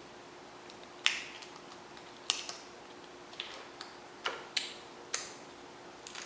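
Lobster shell cracking and snapping as it is pulled apart by hand: a series of sharp, separate cracks and clicks, about seven in all.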